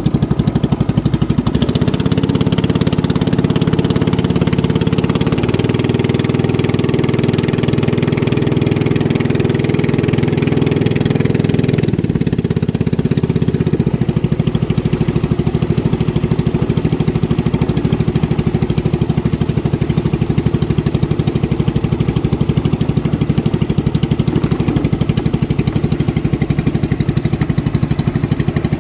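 Motorboat engines running steadily through the race, with a shift in their tone about twelve seconds in.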